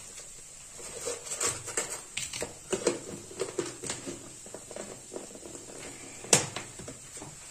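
Spiced potatoes and onions frying in oil in a steel kadhai: irregular crackling and small pops, with one sharper click about six seconds in.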